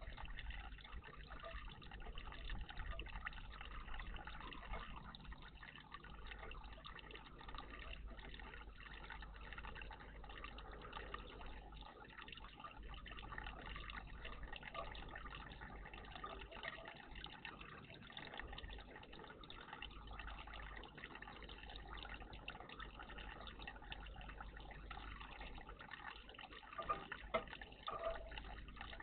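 Water trickling and splashing steadily in a garden bird bath, faint and continuous, with a few sharper, louder sounds near the end.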